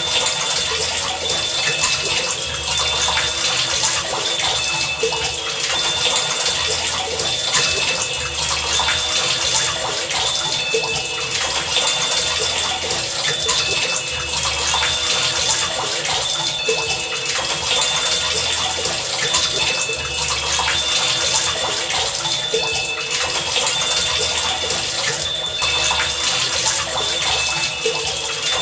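Heavy rain pouring steadily, with a low pulse repeating about every two seconds underneath.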